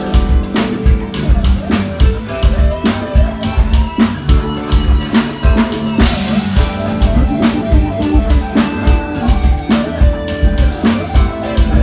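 A live band playing: drum kit keeping a steady beat with kick and snare, under bass and guitar.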